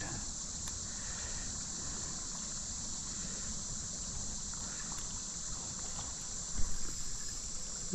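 Creek water running steadily under a constant high drone of crickets. Near the end a short splash, a fish striking a topwater lure.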